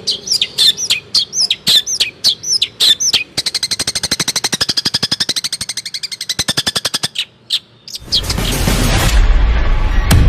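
A songbird singing: a string of quick, high, down-slurred whistled notes, then a fast, even rattling trill lasting about four seconds, then a few single notes. About eight seconds in, a loud, dense noise with a heavy low end starts and drowns out the bird.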